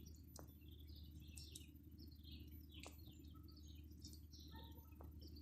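Small birds chirping faintly, many short scattered calls, over a steady low hum.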